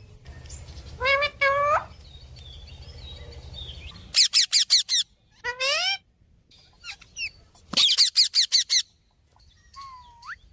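A parrot calling: two rising calls about a second in, then quick runs of short, high, rapidly repeated calls, about six in under a second at roughly four seconds and again near eight seconds, with a single rising whistle near the end.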